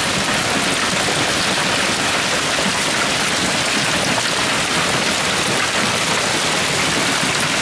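Hailstorm: hail and heavy rain coming down steadily on the surfaces all around, a dense, even patter of countless small impacts.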